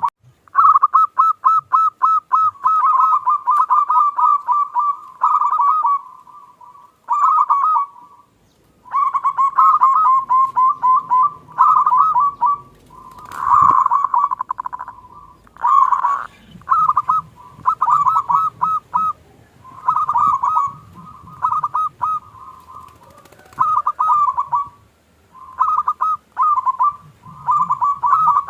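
Zebra dove (perkutut) singing its rapid, rolling cooing song in repeated phrases, with short pauses between them.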